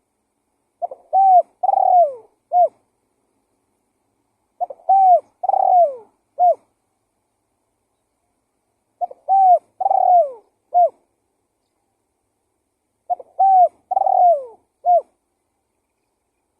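Spotted dove (tekukur) cooing, a lure recording of its song: four phrases about four seconds apart. Each phrase is a short lead note, two longer coos that fall in pitch at the end, and a short closing note.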